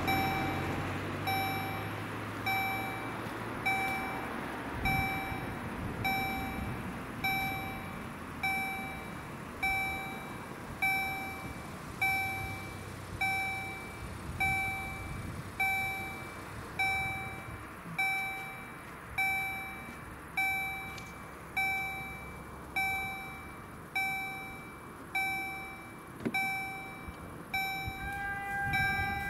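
Level crossing warning bell striking at a steady pace of about one ring every 1.2 seconds, each stroke ringing out and dying away: the crossing is active, signalling an approaching train. A road vehicle passes during the first few seconds.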